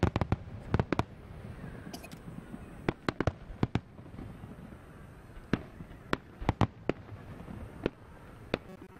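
Aerial fireworks shells bursting overhead: a string of sharp, irregularly spaced bangs, some in quick clusters, with a lull of a second or so between groups.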